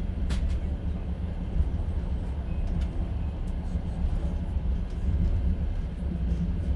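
Inside a moving Russian platskart (open sleeper) train car: steady low rumble of the carriage running on the rails, with faint scattered clicks and rattles, one a little sharper just after the start.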